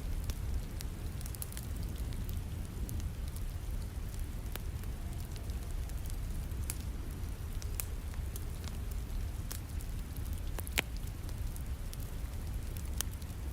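Wood fire crackling with scattered sharp pops, one louder pop near the end, over a steady low hiss and rumble of rain.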